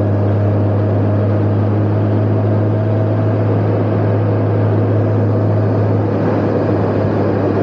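Honda Gold Wing motorcycle engine running at a steady cruising speed, an even low drone, with rushing air noise.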